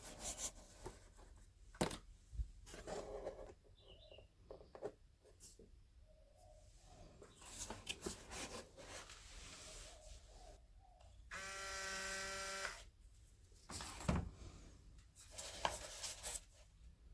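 Scattered clicks and rustles of handling, then, about eleven seconds in, a small electric motor buzzes steadily for about a second and a half.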